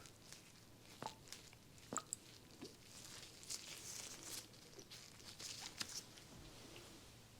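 Faint rustling and crinkling of nitrile-gloved hands handling a cotton pad and wetting it with rose water, with a few small clicks and soft swishes.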